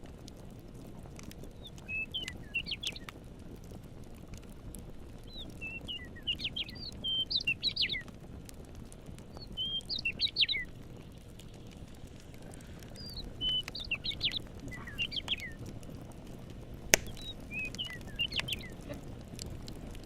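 A songbird singing short, quick chirping phrases, five in turn with pauses between, over a steady low hiss of a campfire with an occasional sharp crackle, one loud pop near the end.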